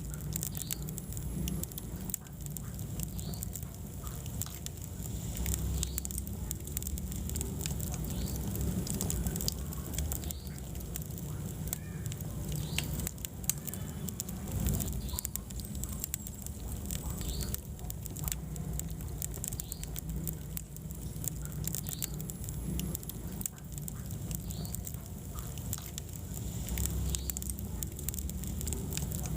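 Wood fire burning in a fireplace, with a low steady rumble of flame and frequent irregular crackles and pops from the burning logs.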